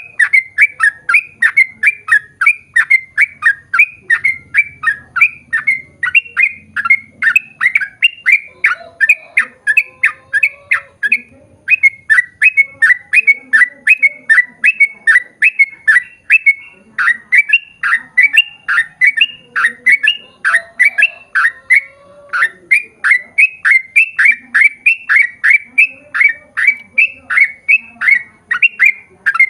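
Yellow-vented bulbul (trucukan) singing a long, fast run of short falling notes, about three a second, with a brief break about eleven seconds in.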